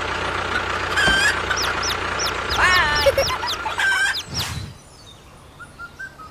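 A DIY mini tractor's small motor runs with a steady hum and stops about four and a half seconds in. Birds chirp repeatedly over it in short, quick calls.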